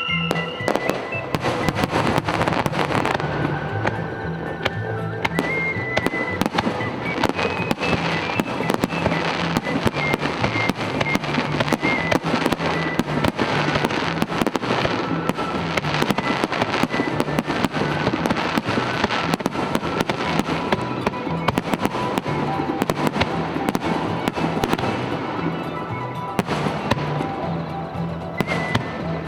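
Fireworks display: a dense, continuous run of aerial shell bursts and crackling, many bangs a second, with music playing along.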